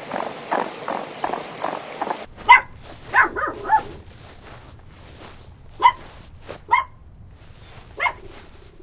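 Dog barking: a quick cluster of four short barks, then single barks spaced a second or more apart. Before them, for about two seconds, comes a rapid series of rough pulses.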